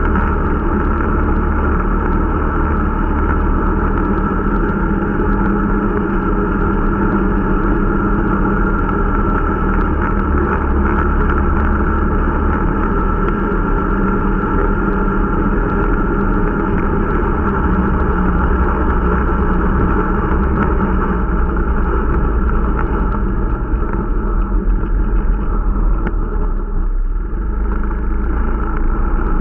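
Irbis Dingo T125 snowmobile's small single-cylinder four-stroke engine running steadily under way while it is being run in, with a brief change in its note near the end.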